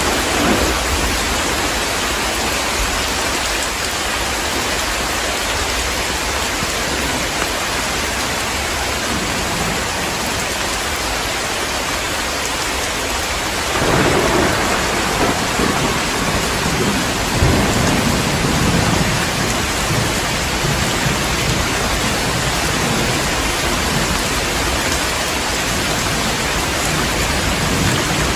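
Heavy rain pouring steadily, with a roll of thunder that swells up about halfway through and rumbles on for several seconds.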